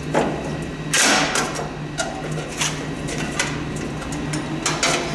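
Irregular metal knocks and clanks from hand tools working on the Lawn-Boy ST524 snowblower during its teardown, about half a dozen sharp hits with the strongest about a second in, over a steady low hum.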